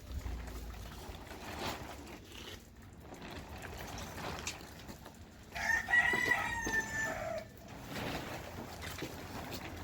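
A rooster crowing once, a single call of about two seconds in the middle, dropping in pitch at the end.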